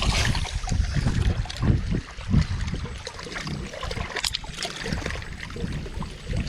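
Water lapping and sloshing, with irregular low thumps and a few faint clicks.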